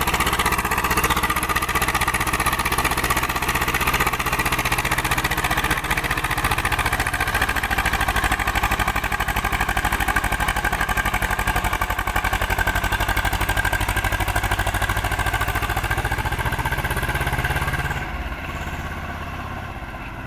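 Swaraj 724 XM tractor's two-cylinder diesel engine running steadily with a fast, even beat. About eighteen seconds in it becomes quieter and duller.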